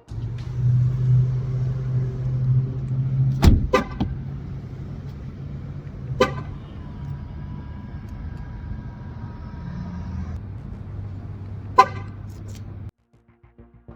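Volkswagen car horn giving short chirps as the car is locked: two close together, then single chirps a few seconds apart, over a steady low hum that cuts off suddenly near the end.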